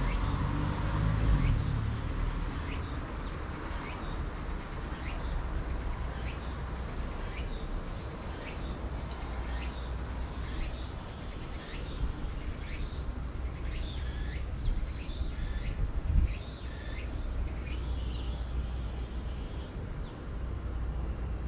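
Small birds chirping in short, falling calls, one or two a second, over a steady low rumble of road traffic. A vehicle's rumble fades away in the first couple of seconds, and a brief thump comes about three-quarters of the way through.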